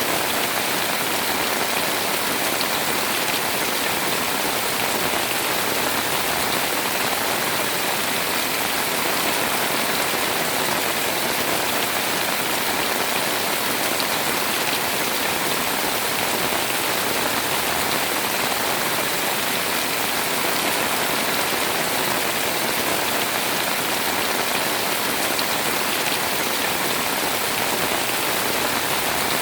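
Heavy rain pouring down steadily, a dense even hiss of drops with no letup.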